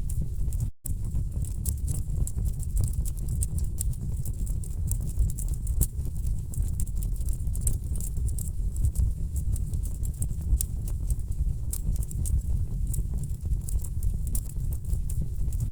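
Wood fire burning in a fireplace: a steady low rumble of flames with dense, irregular crackles and pops from the burning logs. The sound cuts out for a moment just under a second in.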